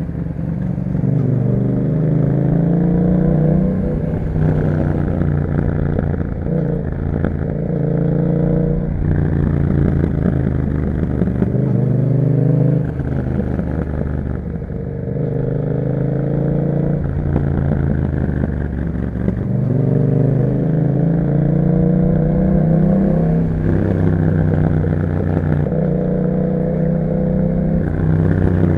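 2021 Yamaha MT-07's 689 cc 270° parallel-twin engine running through an Akrapovic exhaust while riding. It repeatedly pulls up through the revs for a few seconds, then drops back, about six times.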